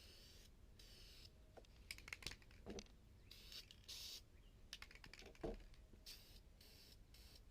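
Faint clicks and rattling from handling an aerosol spray-paint can, with a short hiss about four seconds in and a sharper click about a second later.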